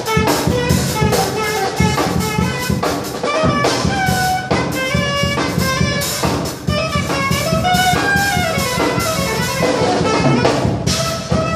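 Saxophone playing a jazz melody over a steady drum beat.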